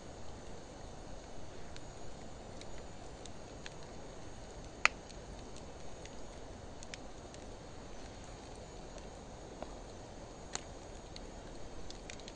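Campfire of driftwood and dry hardwood burning: a steady low rustle of flames with scattered small crackles, a sharp pop about five seconds in and a smaller one near the end.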